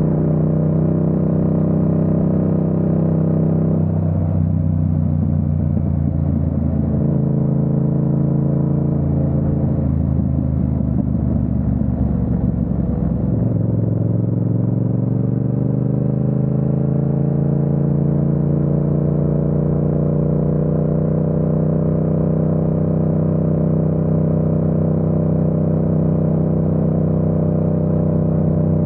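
Yamaha MT-07's 689 cc parallel-twin engine running on the road. Several seconds in, the note drops and turns rougher, then about halfway through it climbs gently as the bike accelerates and settles into a steady cruise.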